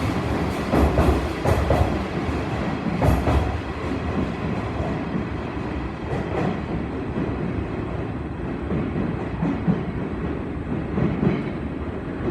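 Electric commuter train running, its wheels clacking over rail joints in the first few seconds and then settling into a steadier rumble.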